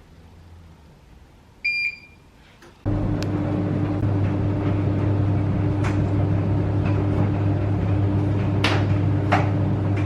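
A single short beep, then a microwave oven starts and runs with a steady hum. A few light clicks and knocks sound over the hum.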